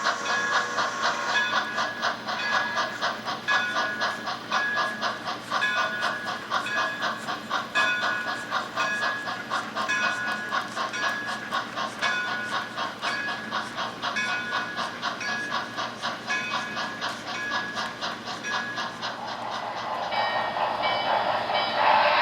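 HO scale model steam locomotive sound running with a steady, even chuffing beat. A hiss of steam swells up near the end.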